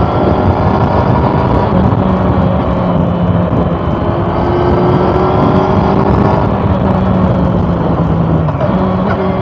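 Honda CB400 Super Four's inline-four engine running under way, its note rising slowly while held in one gear, then changing pitch abruptly near the end.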